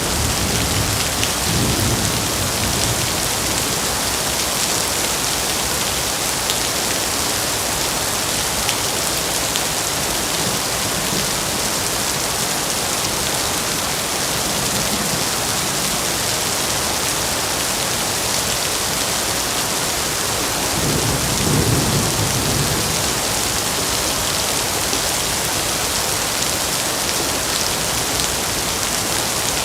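Heavy rain falling steadily, a dense, even hiss of drops on surfaces. A low rumble swells briefly near the start and again about three-quarters of the way through.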